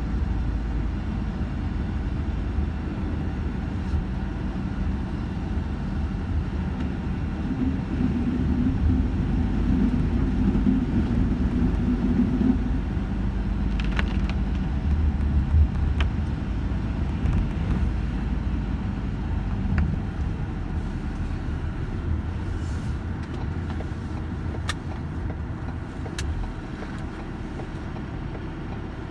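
A motor vehicle engine running with a steady low rumble, swelling for a few seconds around the middle, with a few sharp clicks later on.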